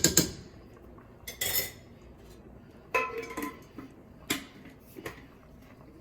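A utensil knocking and clinking against a cooking pot: a loud clatter at the start, then several separate knocks, one about three seconds in ringing briefly.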